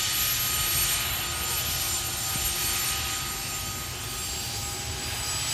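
Aircraft turbine engines running: a steady rushing noise with a thin whine of steady high tones over a low pulsing rumble.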